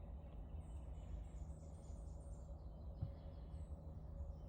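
Faint bird chirping, runs of short high notes, over a steady low background rumble. One soft knock about three seconds in.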